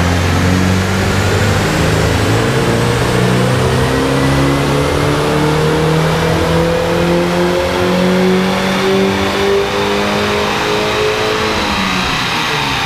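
Porsche 944's four-cylinder engine making a full-throttle dyno pull, its note climbing steadily in pitch for about eleven seconds, then falling away near the end as the throttle is released.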